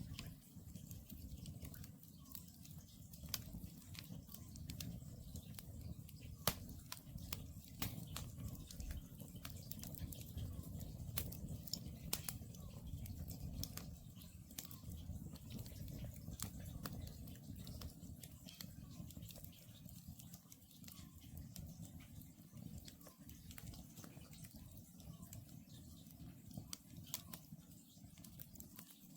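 Wood campfire crackling: irregular sharp snaps and pops over a low steady rumble, with one louder pop about six and a half seconds in.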